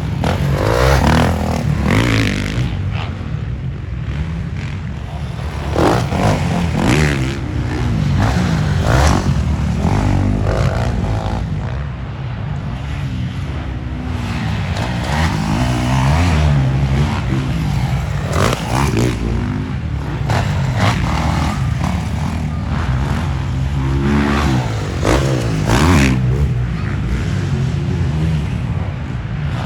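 Motocross dirt bike engines racing on the track, revving up and dropping off again over and over.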